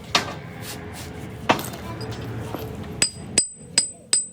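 Hammer blows on metal: two separate strikes, then four quicker ones near the end with a high metallic ring.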